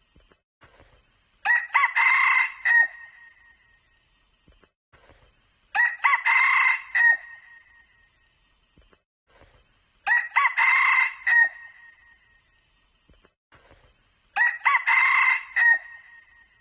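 Red junglefowl cock crowing: four short, ringing crows, each about a second and a half long, repeated about every four seconds.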